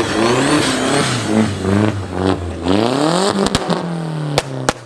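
A car engine revving, its pitch climbing and falling several times, with a few sharp cracks in the second half.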